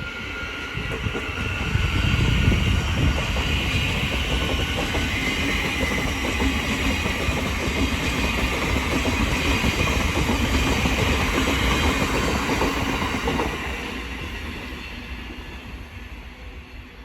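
Thameslink Class 700 electric multiple unit pulling out of the station and running past. Its rumble builds about two seconds in, holds for about ten seconds, then fades away.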